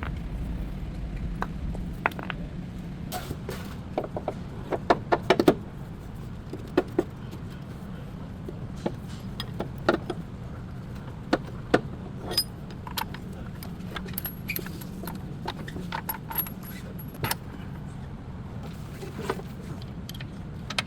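Scattered metallic clinks and clanks of hand tools and metal parts being handled, with a quick run of them about four to five seconds in, over a steady low hum.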